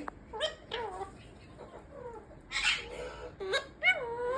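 Baby parrot calling: a run of short pitched squawks that bend up and down, with a harsher, noisier squawk about halfway through and a longer call near the end.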